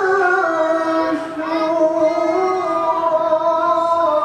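A high voice reciting the Qur'an in melodic tilawah style, holding a long ornamented note that steps down and wavers in pitch, with a brief break about a second in.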